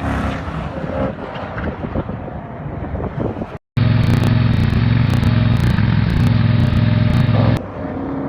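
Engine noise from edited-together vehicle clips. Engines and road noise at first, then a sudden cut about three and a half seconds in to a louder, steady engine with a strong low drone. The quieter engine sound returns near the end.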